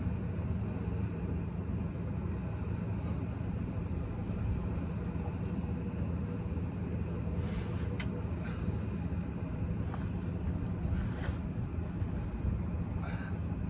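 An engine running steadily at idle, with a few short metallic clinks now and then.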